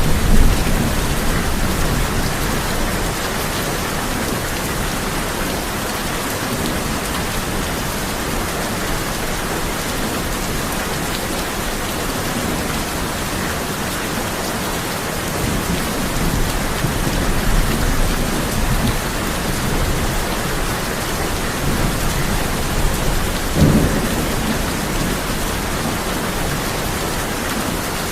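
Steady heavy rain drumming on a tin roof, with thunder rumbling low several times: near the start, a few times through the middle, and a sharper crack about three quarters of the way through.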